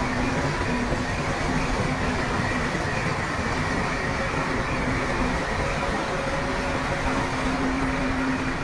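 Heavy diesel earthmoving machinery running steadily, a constant engine drone with a held tone over a dense rumble.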